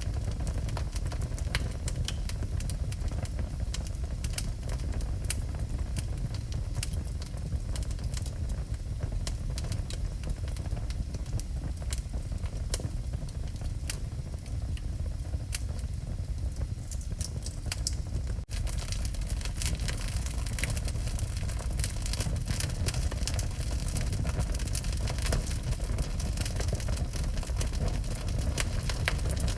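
Wood fire burning in a fireplace: irregular crackles and pops over a steady low rumble. A brief dropout about two-thirds through, after which the crackling is busier.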